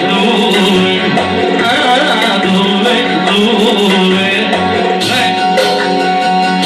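Live tallava music: a wavering, ornamented melodic line over a steady drum beat, with sharper percussion strikes coming in near the end.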